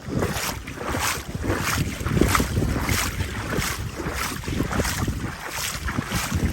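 Footsteps wading through floodwater, splashing at about two steps a second, with wind buffeting the microphone.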